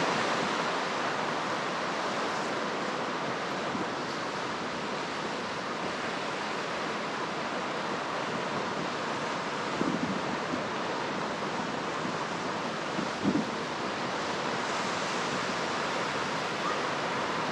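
Ocean surf washing steadily onto the shore, with two brief soft knocks about ten and thirteen seconds in.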